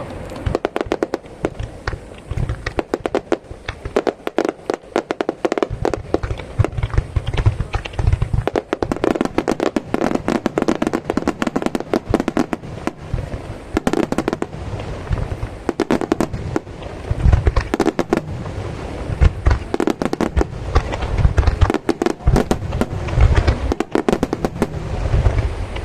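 Aerial fireworks display: a dense, continuous crackle of many small bursts, with deep booms of shells bursting every few seconds.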